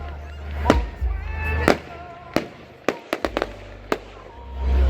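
Fireworks bursting with sharp bangs about once a second and a quick run of crackles about three seconds in, over music played through loudspeakers.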